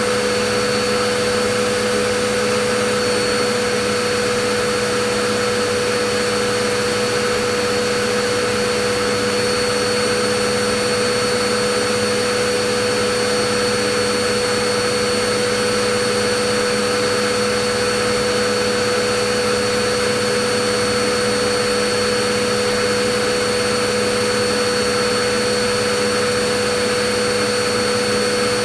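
Vacuum cleaner motor running steadily, a constant airy hiss with a steady hum and a high whine over it.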